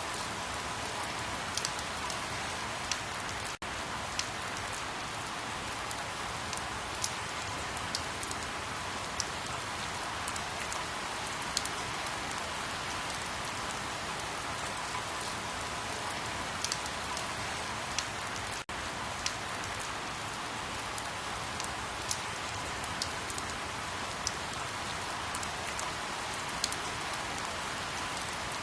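Steady rain falling, with individual drops ticking irregularly on a surface. The sound cuts out for a split second twice.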